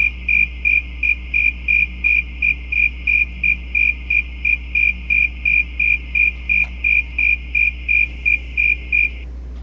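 Smiley sound effect played through a computer's speakers: a high, even cricket-like chirp repeating about three times a second, which stops shortly before the end.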